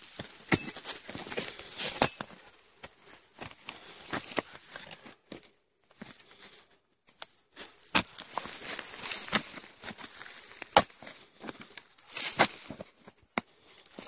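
Shovel digging into soil around kudzu roots: irregular scrapes and crunches of the blade, with a pause of about two seconds midway.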